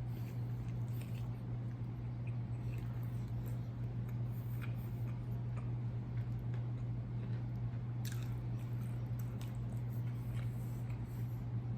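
Close-miked chewing and wet mouth sounds of someone eating fried fast food, with small smacks and crunches scattered through. A steady low hum runs underneath.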